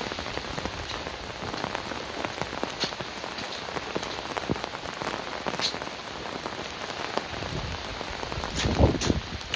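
Heavy rain falling steadily, with many separate drops striking close by and a louder low thud about nine seconds in.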